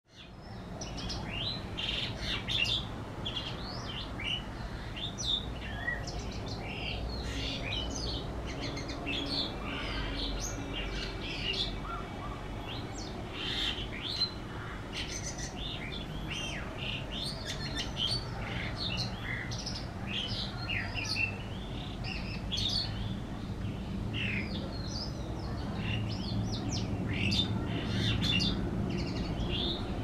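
Small birds chirping, many short high notes and trills overlapping and never stopping, over a faint low steady hum.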